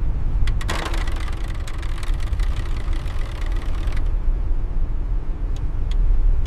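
Steady deep rumble, with scattered crackling and clicking from about half a second in until about four seconds in, then a few faint clicks near the end.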